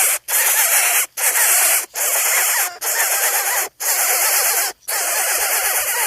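Dense high-pitched bird squeaking and chirping over a steady hiss, broken by short dropouts to silence about once a second.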